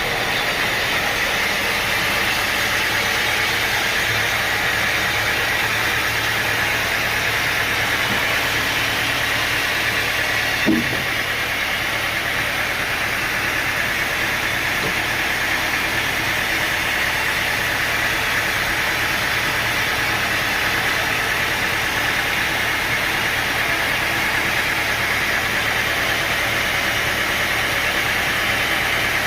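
Sawmill machinery running steadily, with one short knock about eleven seconds in.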